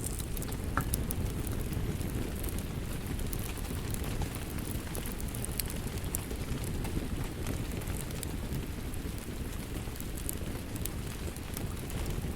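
Wood fire crackling, with scattered sharp pops, over the steady hiss and patter of rain.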